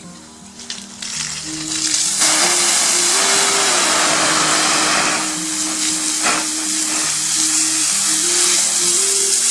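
Loud, steady sizzling on a hot barbecue grill. It builds over the first two seconds and then holds.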